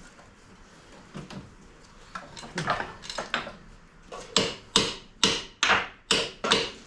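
Hammer blows: a few scattered strikes, then a steady run of about two strikes a second, each sharp with a short ring.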